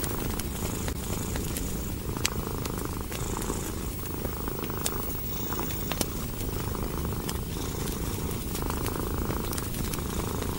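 Domestic cat purring close up, a steady low rumble that swells and eases with each breath, with scattered sharp pops and clicks of a wood fire crackling.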